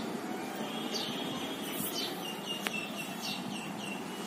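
Small bird chirping: short, high, falling chirps, with a quick run of them, about four a second, in the middle, over a steady background hiss. There is one sharp click about two and a half seconds in.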